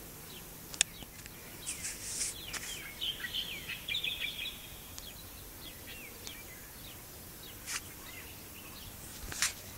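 Birds chirping in short, quick calls over steady outdoor background noise, busiest in the first half, with one sharp click a little under a second in.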